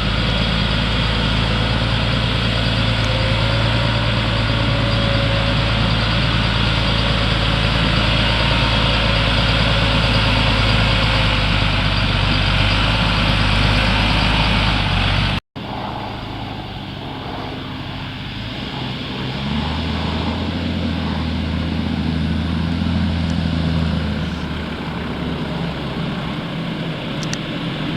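Diesel engine of a 380-horsepower slurry tanker running steadily under load. The sound breaks off abruptly about halfway and resumes quieter, then grows louder a few seconds later as the machine approaches.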